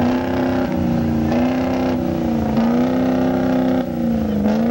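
Diesel pickup truck engine held at high revs under load, pulling a sled, its pitch sagging slightly and recovering about three times.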